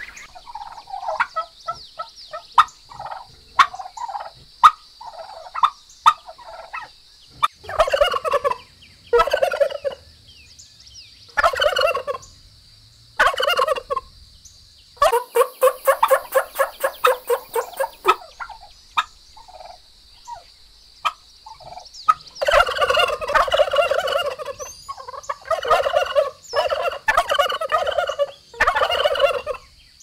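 Domestic turkeys gobbling: repeated bursts of rapid, rattling gobbles, one of them long and a run of them close together near the end. Before the gobbling starts, the first few seconds hold only short single calls.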